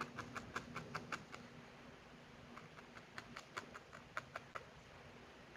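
Felting needle stabbing repeatedly into wool: a run of faint, quick clicks about five or six a second, stopping about a second in and starting again a little later.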